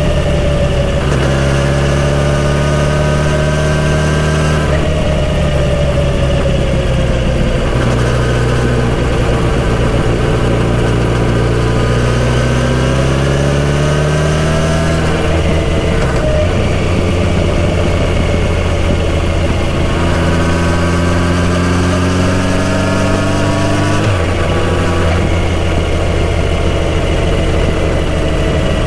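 Kawasaki Z900RS inline-four running through a full-system exhaust under way. The engine note climbs in pitch, then drops at each gear change, several times over, with stretches of steadier cruising between.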